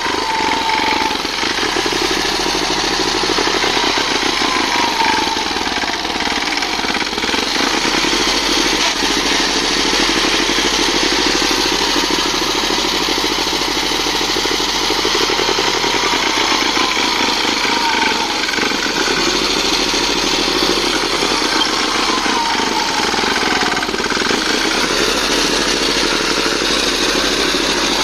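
Tractor engine running steadily with a fast, even chugging. A few short falling tones sound faintly over it.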